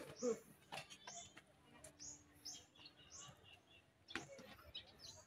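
A small bird chirping faintly outdoors, short high chirps repeating about twice a second, with a sharp knock about four seconds in.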